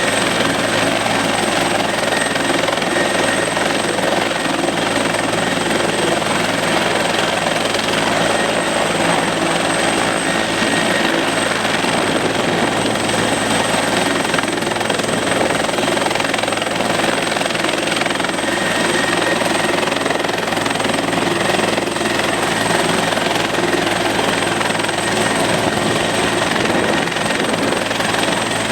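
Helicopter running loud and steady, its engine and rotor holding one unchanging note.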